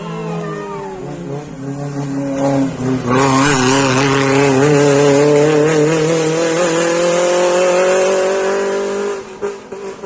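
A rally car's engine running hard, its pitch climbing slowly as it accelerates, with loud tyre and road noise setting in about three seconds in. The sound drops away near the end.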